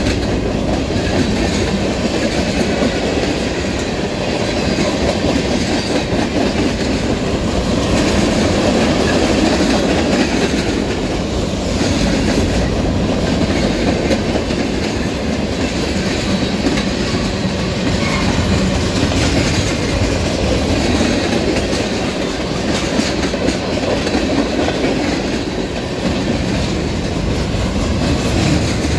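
Freight cars of a train climbing a grade rolling past on a trestle bridge: a steady rumble of steel wheels on rail, with faint repeated clicks.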